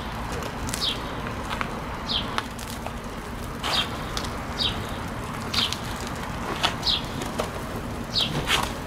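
Small birds chirping: short, high chirps that slide downward, repeated every second or so over a steady low background hum.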